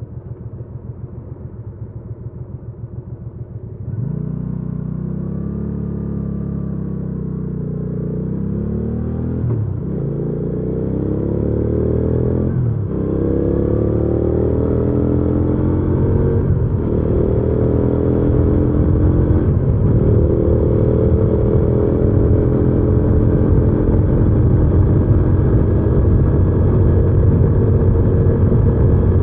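Hyosung GV300S Aquila 300's V-twin engine idling unevenly for the first few seconds, then pulling away and accelerating through the gears. The pitch climbs and drops back at four upshifts before the engine settles into a steady, higher-revving cruise.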